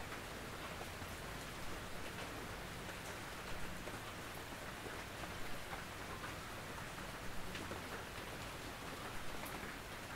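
Steady gentle rain falling on a tin roof, a constant hiss with scattered sharp drop taps on the metal.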